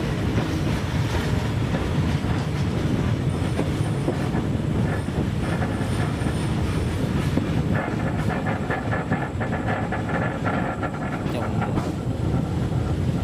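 Railway work train rolling along the track: a steady low rumble with wheel clatter, and a faint high squeal that comes and goes in the middle stretch.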